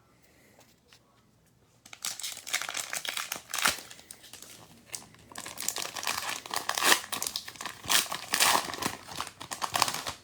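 Wrapper of a pack of baseball trading cards being torn open and crinkled by hand, starting about two seconds in and going on in uneven bursts of crackling.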